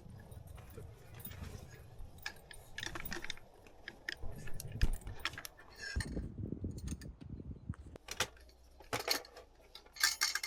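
Small metal items clinking and jangling as gear is handled, with scattered short clicks and a couple of duller knocks.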